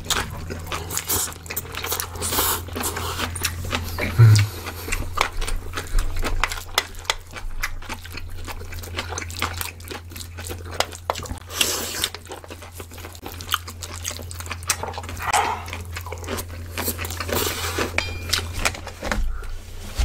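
Close-miked eating sounds: wet chewing and smacking of mouthfuls of bibimbap and kimchi stew, with crunches and small clicks of chopsticks, over a steady low hum.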